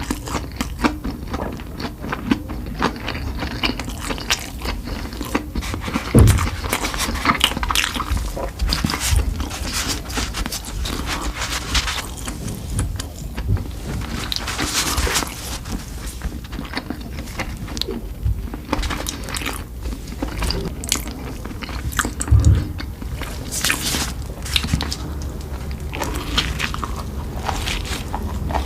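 Close-miked eating sounds: a person biting and chewing food, a dense run of small clicks with a few louder bites now and then.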